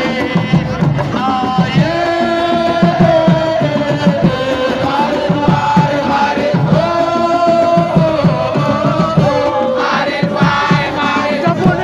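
A crowd of supporters singing a chant together over drumming. The same sung phrase, with long held notes, comes twice.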